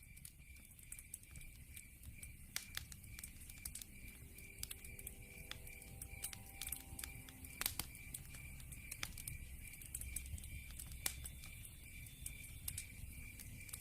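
Wood fire crackling, with scattered sharp pops over a low rumble of the flames. Behind it, a steady high chirp like a cricket pulses about three times a second.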